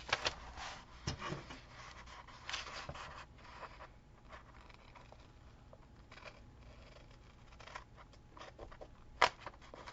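Faint rustling and scraping of washi tape and paper being handled and smoothed on a journal page, busiest in the first few seconds, with one sharp tap about nine seconds in.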